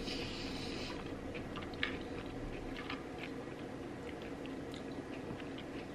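Close-miked chewing and eating mouth sounds: a soft hissy noise in the first second, then slow chewing with scattered small wet clicks, one sharper about two seconds in.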